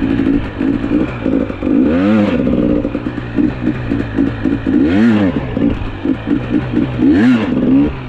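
Two-stroke dirt bike engine revving up and down repeatedly under riding, with three long rev swells and many quick throttle blips between them.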